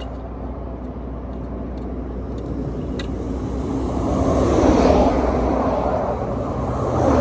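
Highway traffic going by close at hand: a steady rumble, with one vehicle passing with a rising and fading whoosh about two-thirds of the way in and another near the end.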